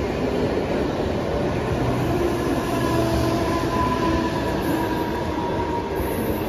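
Mumbai suburban electric local train (EMU) running past at the platform: a steady rumble of coaches rolling on the rails, with a faint whine rising in the middle.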